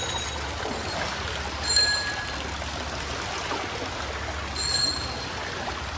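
Heavy rain falling and water running on a flooded street, a steady hiss. Two short bell-like rings sound over it, about two seconds in and again near five seconds.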